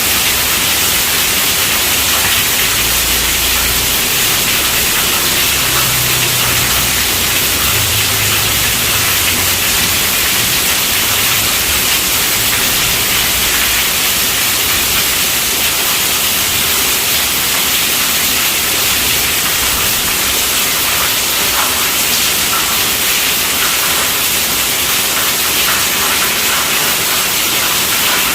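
Heavy rain drumming steadily on a tent roof, a dense even hiss. A faint low rumble sits under it for several seconds in the first half.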